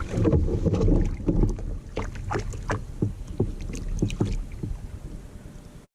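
Knocks and clatter on a fishing kayak with a low rumble of wind and handling noise on the microphone, the knocks coming thick at first and thinning out before the sound cuts off abruptly near the end.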